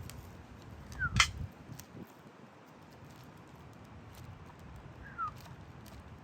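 A new carburetor being handled and unpacked: scattered clicks and knocks, the loudest about a second in, over a low steady rumble. Two short falling chirps, one about a second in and one near the end.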